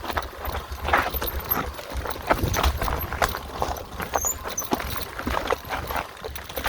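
Mountain bike riding down a rough dirt singletrack: the frame and parts rattle and knock irregularly over roots and rocks, with wind buffeting the microphone.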